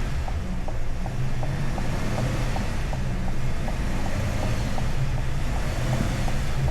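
Chevrolet Tahoe's engine running with a steady low rumble, heard through the lowered driver's window. A faint, even ticking repeats a little under twice a second.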